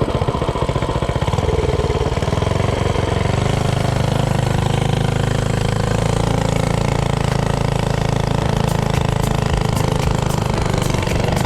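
Modified Predator 212 single-cylinder engine on a minibike, with a header pipe exhaust, running at full throttle on a top-speed run. It climbs in revs over the first few seconds, then holds steady at high revs. The engine is jetted a little rich.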